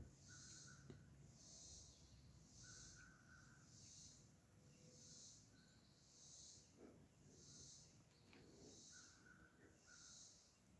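Faint rhythmic insect call: a short raspy high-pitched pulse repeated a little more than once a second, with a few brief faint higher notes in between.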